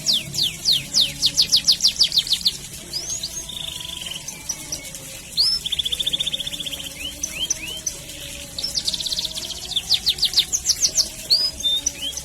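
Domestic canary singing a long, lively song: runs of quick downward-sweeping whistles at about six a second, buzzing trills, and short chirps in between.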